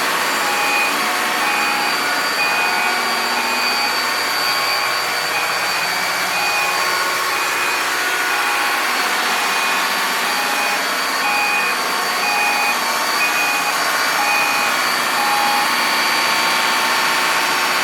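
Steady, loud machinery noise of a running engine room, with a short two-tone electronic beep repeating about once a second that stops shortly before the end.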